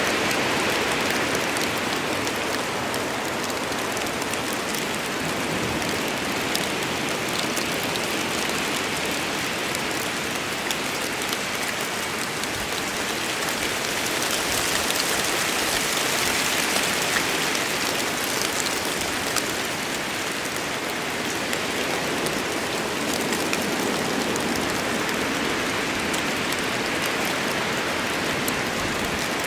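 Steady heavy rain falling in a forest, a dense patter of drops with slow swells in intensity.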